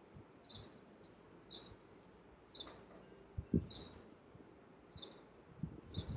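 A bird chirping: a short, high chirp falling in pitch, repeated about once a second. A few dull low thumps come in between, the loudest about halfway through.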